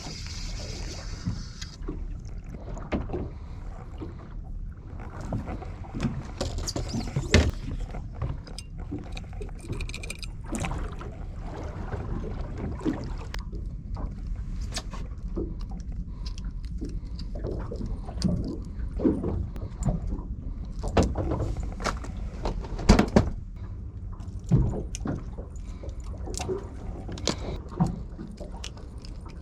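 Sounds aboard a small fishing boat at sea: a steady low rumble with irregular knocks and thumps, the loudest about 7, 23 and 24 seconds in.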